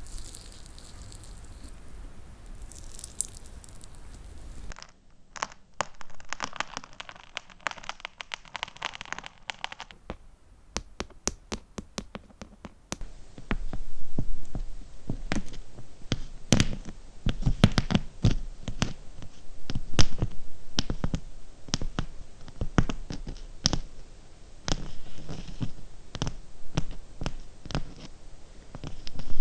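Close-miked fingernail tapping on small hard cubic zirconia gems: a quick, irregular run of light clicks that changes character in short sections. From about 13 seconds in, the taps grow louder and come with soft low thuds.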